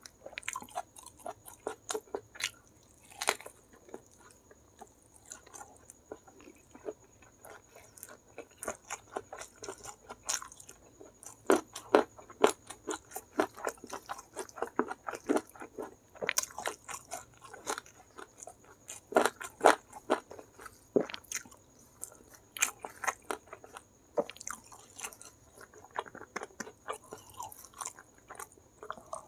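Close-miked chewing and crunching of crispy Kentucky-style fried chicken coated in chili sambal, eaten with rice by hand: many short, irregular crackles and bites.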